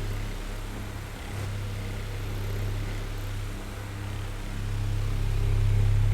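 Oscillating electric fan running: a steady low hum under the whir of moving air, growing louder near the end.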